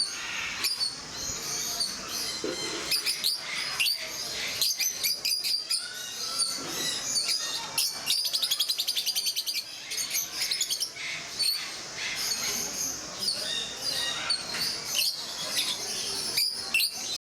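A group of peach-faced lovebirds chirping continuously: shrill, overlapping chirps broken by fast chattering trills.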